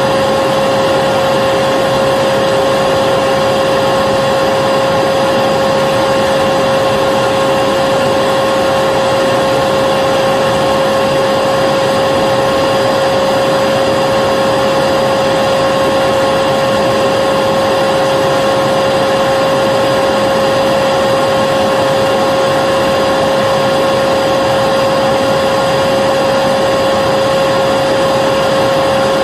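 Vacuum cleaner motor running steadily: a constant airflow roar with a steady whine, unchanging throughout.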